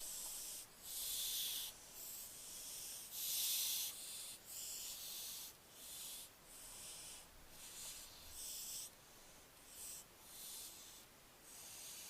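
Barn owlet giving its hissing, snore-like begging calls, a raspy breathy hiss repeated about once a second, some longer and louder than others.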